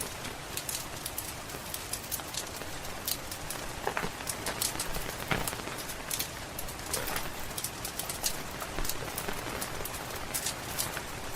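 Steady rain hiss with a wood fire crackling, many small sharp crackles and a louder pop about five seconds in.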